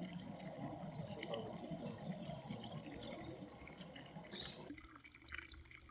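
Faint water churning and splashing from a cordless robotic pool vacuum climbing the pool wall to the waterline. It stops abruptly near the end.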